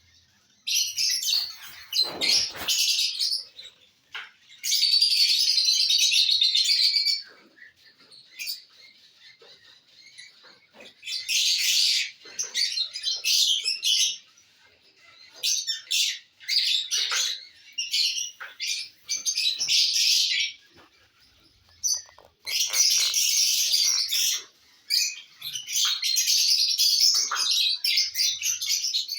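Lovebirds chattering in dense, high-pitched chirps, in bursts of a second to several seconds broken by short quiet gaps.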